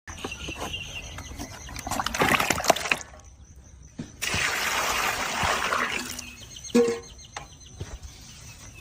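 Liquid pouring and splashing, with a few clatters and a sharp knock near the end.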